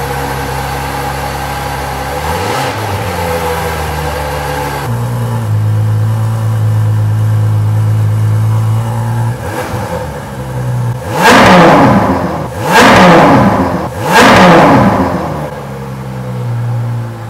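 Ferrari 812 Superfast's naturally aspirated 6.5-litre V12 idling, then revved hard three times in quick succession, about a second and a half apart, each rev rising and falling sharply before it drops back to idle.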